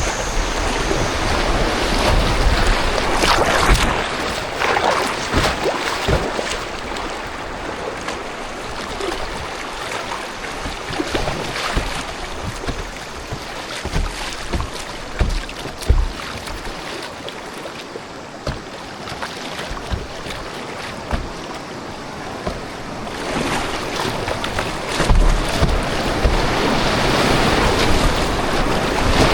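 Water rushing and splashing around a kayak on a river, with wind buffeting the microphone in low rumbles.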